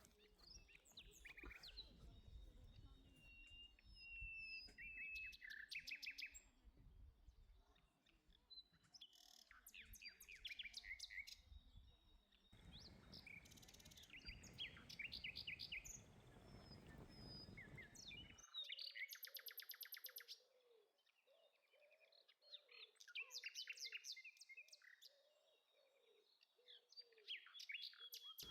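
Birds chirping faintly, a series of short high chirps and whistled phrases, with a fast high trill about nineteen seconds in.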